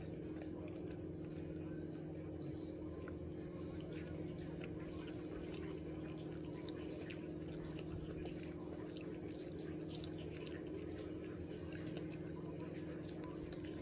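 Quiet chewing with many small wet clicks and smacks of mouth and sauce-covered fingers while eating barbecue, over a steady low hum in the room.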